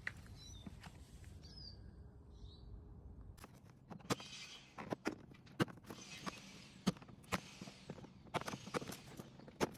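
Birds chirping over a low outdoor rumble, then from about three and a half seconds a run of sharp, irregular taps, some with a short hiss around them.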